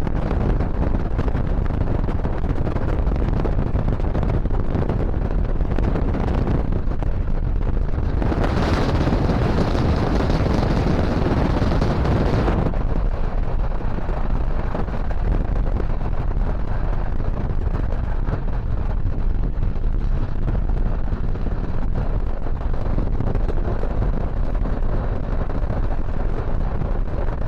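Moving train running on the track, a steady rumble with wind buffeting the microphone; a louder, brighter rush of noise from about eight to twelve seconds in.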